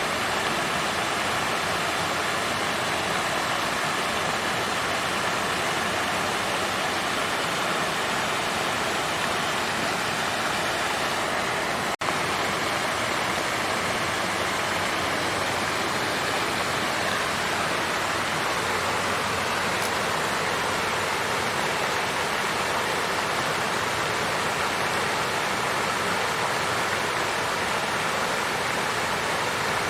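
Water fountain flowing: a steady, even rush of splashing water that does not change, with a momentary break about twelve seconds in.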